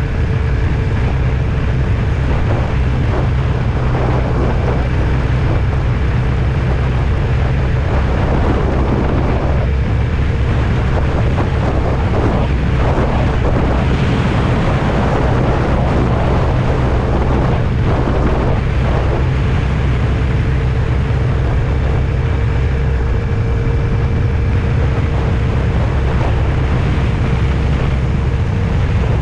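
Steady running noise of a vehicle on the move: a constant low engine and road rumble with a faint steady hum and some wind noise.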